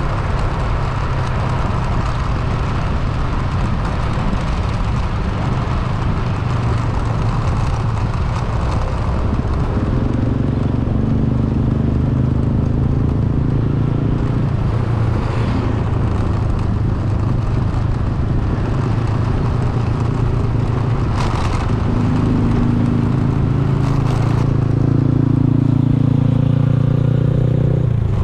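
Motor vehicle on the move: steady engine and road noise. The engine note climbs twice, about a third of the way in and again near the end, as it speeds up.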